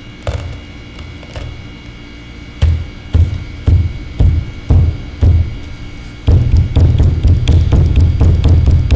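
Drum music: low, even drum beats about twice a second, breaking into fast, continuous drumming about six seconds in.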